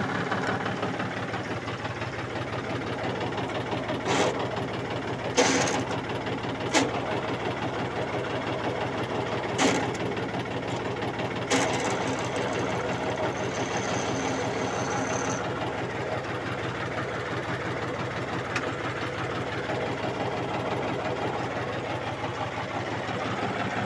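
John Deere 5310 tractor's three-cylinder diesel engine running steadily with a fast, even mechanical clatter. A few sharp clicks or knocks come in the first half, and a brief high whine sounds near the middle.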